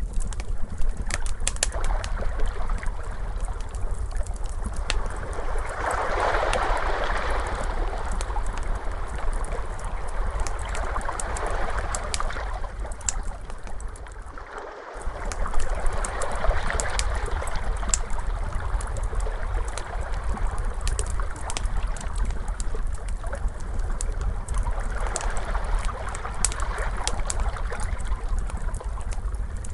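Ocean waves washing in slow swells over a steady low rumble, with the sharp pops and crackles of a wood fire scattered throughout. The sound dips briefly about halfway through.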